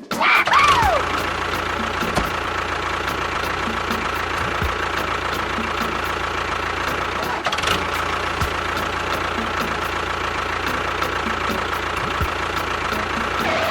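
A small motor running steadily with a constant whine, like a DIY mini tractor's DC motor. A brief falling tone sounds about half a second in.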